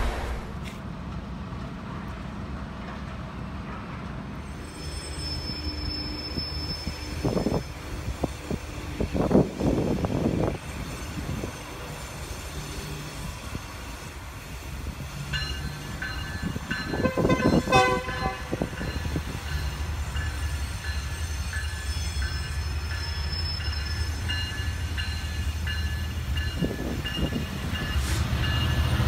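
Trains running through a station: a double-stack container freight train rumbling by steadily, with a train horn sounding. Thin high squealing tones come and go in the second half.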